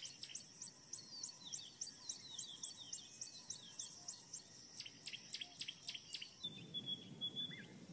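Faint birdsong: a rapid, even run of high chirps, about four a second, over softer falling notes. About six seconds in it gives way to a few sharp notes and a thin, broken whistle.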